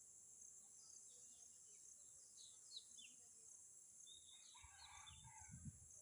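Faint bird chirps: a few short falling chirps, then a brief burst of chattering calls about four seconds in, over a steady high insect-like hiss.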